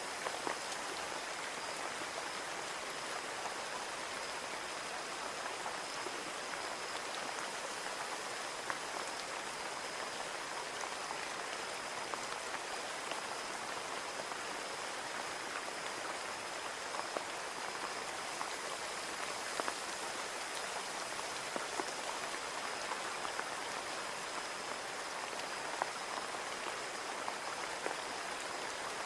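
Steady rain on window glass: an even patter with individual drops tapping sharply here and there, over a faint steady high whine.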